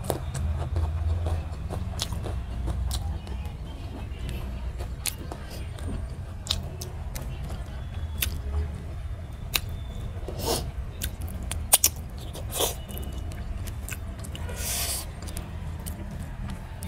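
Close-up mouth sounds of a person eating rice and chicken curry by hand: chewing and lip smacking with many scattered sharp clicks, over a low steady hum. A few short breathy bursts come in the second half.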